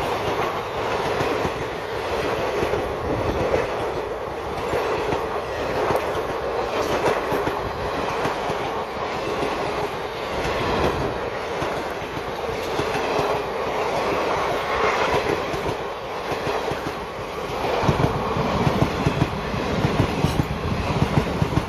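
Passenger coaches of an express train rolling past at speed, with a steady rushing rumble of steel wheels on rail. Sharper wheel clacks over rail joints stand out near the end.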